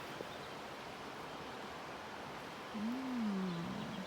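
Fast-flowing river rushing steadily, with light rain. About three seconds in there is a short low sound that rises and falls in pitch, like a brief hum or whine.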